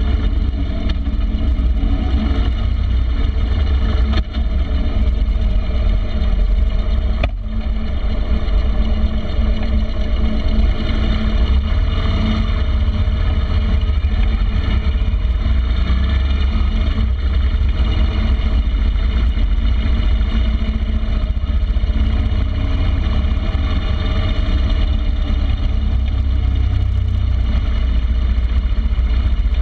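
Harley-Davidson Street Glide's V-twin engine running steadily under way, with heavy wind rush on the fender-mounted microphone.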